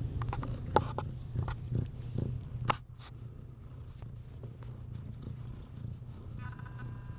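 Domestic cat purring steadily, a low continuous rumble, with scattered small clicks and rustles in the first three seconds.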